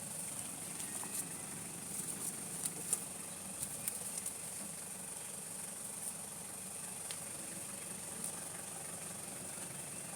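Steady high insect chirring over a low steady hum, with scattered small taps and clicks.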